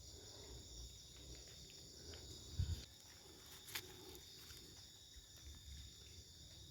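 Faint, steady chorus of forest insects, a continuous high-pitched chirring, with a soft low knock about two and a half seconds in and a sharp click about a second later.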